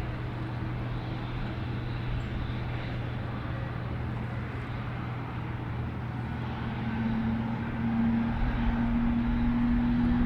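Distant airliner engines, a steady low hum. A steady tone joins about seven seconds in and the sound grows louder toward the end.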